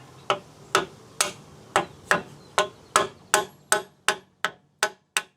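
Steady hammer taps, about two to three a second with a metallic ring, driving a new rear axle seal into a 2005 GMC Envoy's axle housing.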